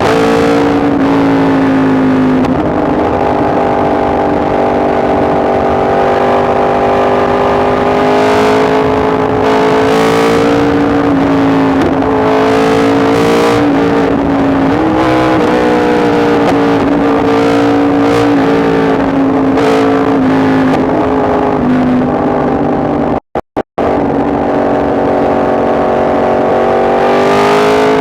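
Yamaha MT-10 SP's crossplane inline-four engine running under way, its pitch rising and falling gently with the throttle. About three-quarters of the way through, the sound cuts out three times very briefly.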